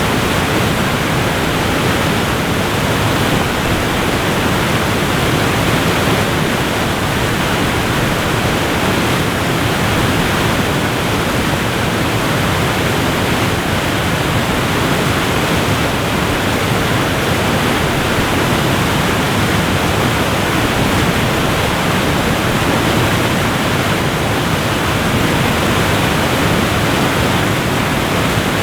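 Waterfall pouring, a steady, even rushing noise with no breaks or changes.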